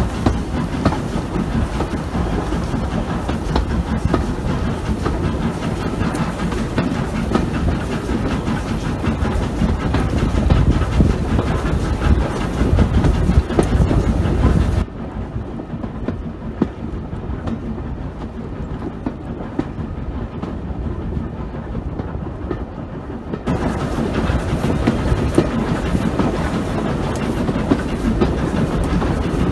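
Steam-hauled train in motion heard from an open carriage window: steady running noise with wheels clicking over the rail joints. For several seconds in the middle the sound drops and turns duller, then comes back at full strength.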